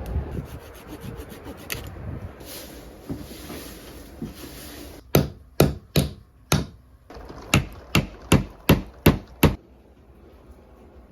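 Rubbing and scraping on wood, then about ten sharp knocks on wood in two quick runs, two to three strikes a second, each with a short ring.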